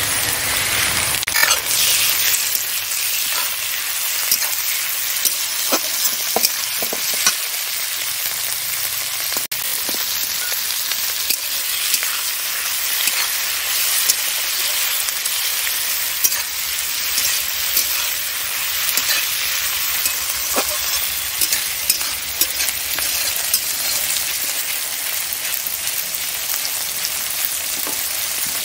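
Prawns sizzling as they fry in hot oil with sliced onions in a steel wok: a steady sizzle with scattered clicks and scrapes of stirring.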